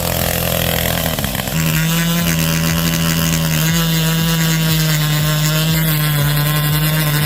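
Two-stroke chainsaw revving up to full throttle about a second and a half in, then running steadily at high speed.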